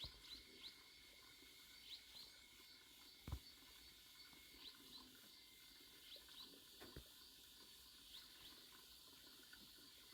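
Quiet natural ambience: faint short rising bird chirps, often in pairs, over a steady high insect hiss, with a soft knock about three seconds in.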